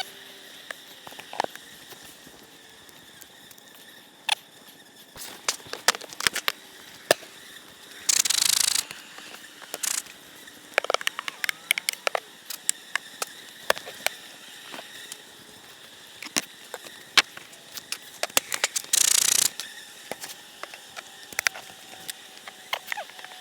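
Wooden beehive boxes and frames being handled: scattered clicks, knocks and scrapes of wood and a metal hive tool. Two short loud bursts of rushing air come about eight and nineteen seconds in.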